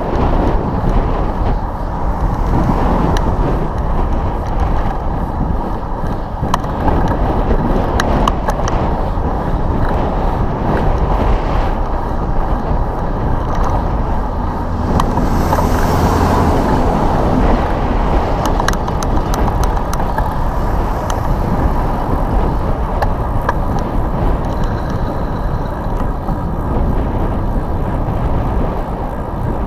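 Wind buffeting the microphone on a ride along a road, with motor traffic; a vehicle goes by with a low hum about halfway through.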